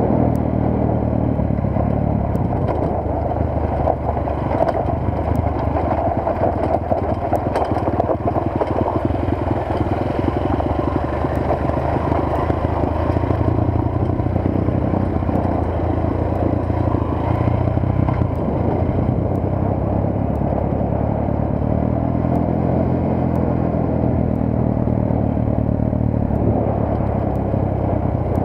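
Motorcycle engine running steadily on the move, its pitch shifting a little with speed, over wind and road noise.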